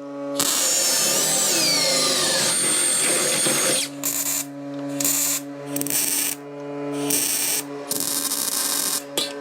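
A handheld power tool running, its whine bending up and down and then holding high, followed by several short on-off bursts. A steady music bed hums underneath.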